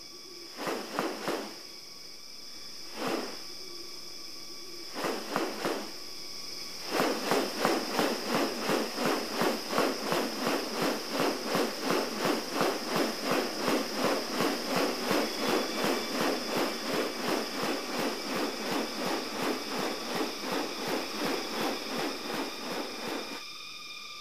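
Rainforest sounds: a steady high-pitched drone, with a few scattered calls early, then from about seven seconds in a fast, even run of repeated pulsing notes, about three a second, that stops shortly before the end.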